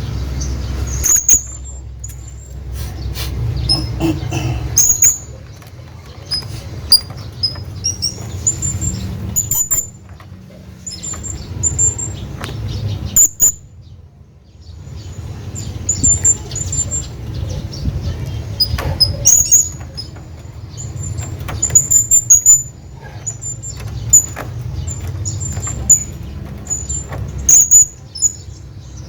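Hanging parrot giving short, high-pitched chirps in irregular clusters, over a low steady hum.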